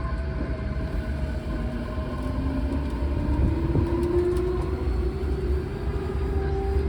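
Odakyu 4000 series electric train running, its traction motor whine slowly rising in pitch as the train gathers speed, over a steady rumble of wheels on track.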